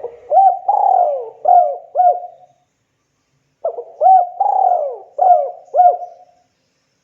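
Spotted dove (tekukur) cooing: two song phrases about a second apart, each a run of several rolling coos.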